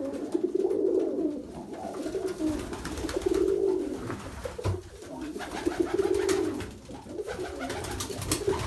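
Many domestic pigeons cooing together in a loft, overlapping low warbling coos one after another with scattered wing flaps and scuffles.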